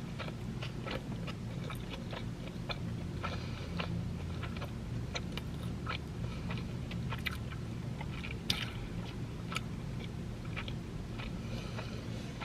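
Close-up chewing of a mouthful of burger: soft wet mouth clicks and smacks scattered throughout, with one sharper click about eight and a half seconds in, over a steady low hum.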